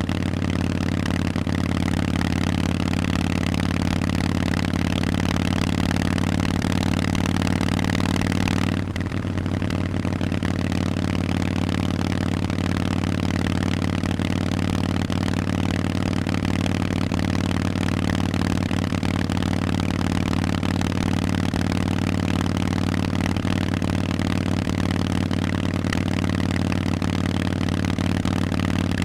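Harley-Davidson Forty-Eight's air-cooled V-twin running through Vance & Hines exhaust pipes at a steady pace, with a hiss over it. About nine seconds in, the hiss and loudness drop slightly and the engine note carries on unchanged.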